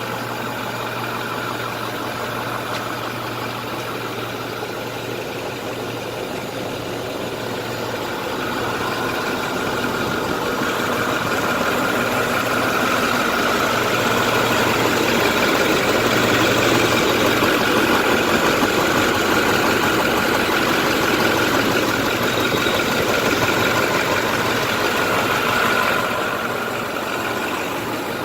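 2010 International DuraStar 4300's diesel engine running steadily. It grows louder about eight seconds in and drops back near the end.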